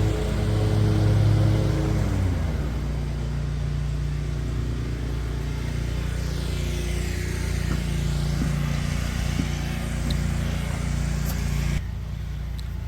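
Steady low engine drone of a running vehicle. A strain of music stops about two seconds in, and the sound changes abruptly near the end.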